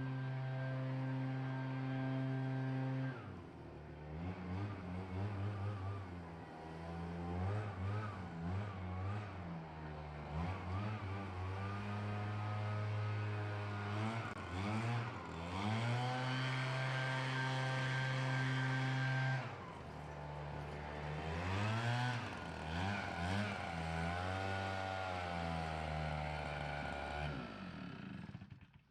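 Small gas engine of lawn equipment running, steady for stretches with its speed repeatedly rising and falling in between, then dying away at the very end.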